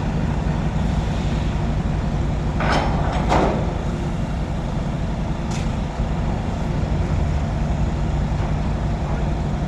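Container truck's diesel engine running steadily, with two short loud hisses of air about three seconds in and a fainter hiss a couple of seconds later.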